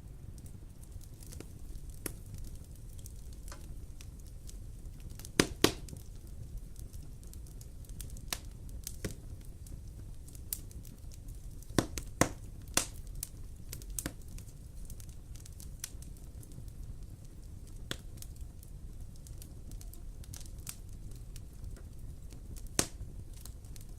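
Wood fire crackling in a fireplace: irregular sharp pops and snaps over a low, steady burning hiss, with the loudest pops clustered around a quarter of the way in, the middle, and near the end.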